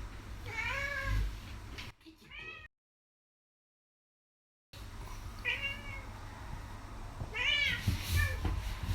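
Male tabby cat meowing repeatedly while being stroked: about five short meows that rise and fall in pitch. The sound drops out completely for about two seconds in the middle.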